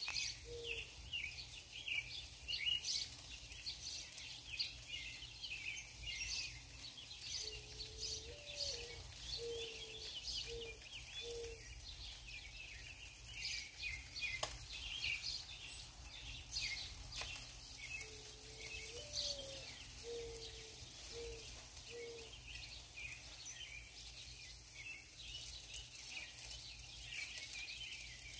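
Many small birds chirping busily together, with a dove cooing two five-note phrases, the first note of each rising and falling, and a steady low hum underneath.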